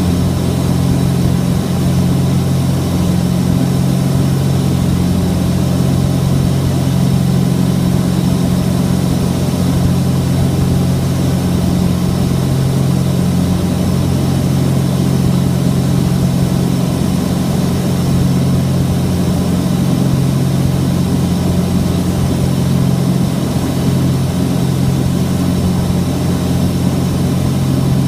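Cessna 421's twin turbocharged flat-six piston engines and propellers droning steadily at constant power, a low, even hum with no change in pitch.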